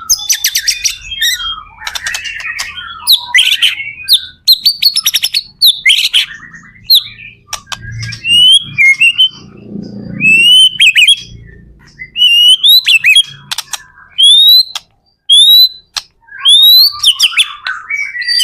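White-rumped shama (murai batu) singing loudly in a varied stream of phrases: fast chattering rattles at first, then a run of clear rising whistles about one a second.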